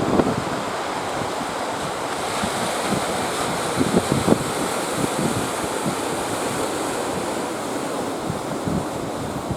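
Sea surf breaking and washing at a harbour mouth, with strong wind buffeting the microphone.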